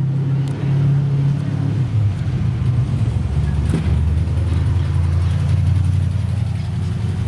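Classic racing car engine running steadily at low revs, its pitch stepping down about two seconds in and settling lower for the rest.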